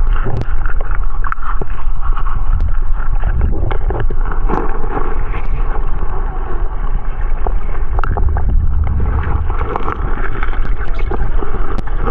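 Loud, muffled rushing and sloshing water at a waterfall pool, with scattered sharp knocks and splashes through it.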